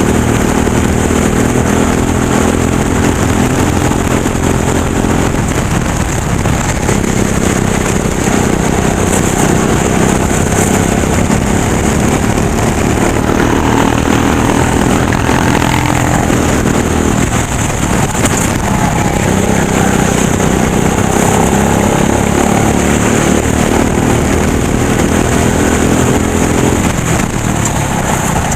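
Racing kart engine running hard through a lap, its pitch dropping off twice, about six seconds in and again around seventeen seconds, then climbing back up as it accelerates.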